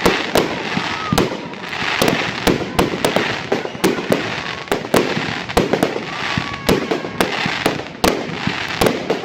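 Fireworks going off: rapid, irregular bangs, several a second, over a continuous crackling rush, with a few short whistles.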